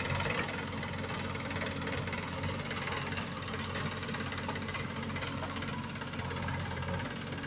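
Heavy diesel engine of earthmoving or farm machinery running steadily at an even speed.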